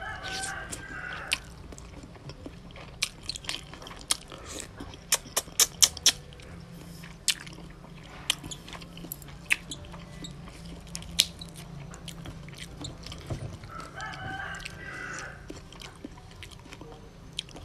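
Close-up mouth sounds of eating raw salmon salad with rice noodles: chewing and lip smacks as sharp wet clicks, with a cluster of them about five to six seconds in. A rooster crows twice in the background, at the start and again near the end.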